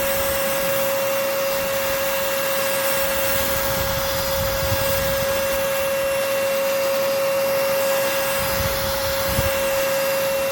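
BSRCO cordless handheld vacuum cleaner running steadily with a strong, even whine over a rushing air noise, vacuuming up spilled chia seeds, quinoa and crushed crackers.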